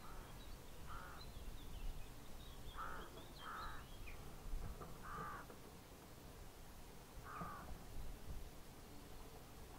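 A bird giving five short, harsh caw-like calls at irregular intervals, with faint higher chirps from another small bird in the first few seconds, over a faint low rumble.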